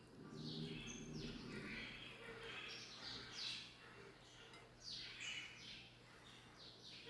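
Birds chirping in the background: a run of short, high calls that sweep downward in pitch, repeating every second or so.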